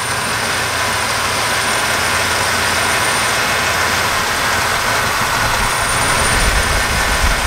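Small-block Chevy V8 with an Edelbrock four-barrel carburetor idling steadily while its idle mixture screw is turned. The low rumble grows stronger about five and a half seconds in.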